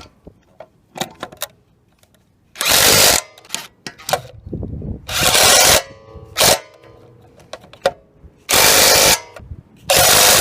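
DeWalt 20V XR DCF894H cordless impact wrench hammering in about five short bursts of roughly half a second each, one very brief, with small metallic clicks and clatter in between.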